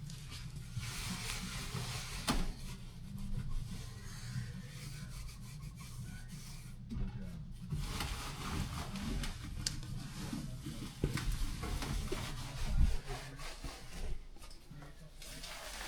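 Irregular rubbing and scrubbing on the indoor unit of an air conditioner as it is cleaned, with a few knocks.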